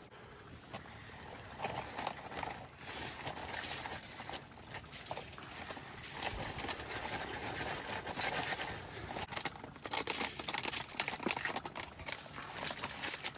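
Footsteps crunching in snow, irregular, with rustling; the steps come denser and louder in the second half.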